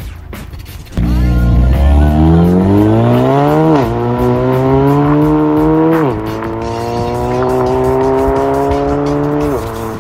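Ford Focus MK4 ST's exhaust, fitted with a CGW 200-cell downpipe and stainless twin-valve cat-back, under hard acceleration. It comes in suddenly about a second in and the engine note climbs steadily, drops at an upshift about four seconds in and at another about six seconds in, then climbs slowly again and falls away near the end.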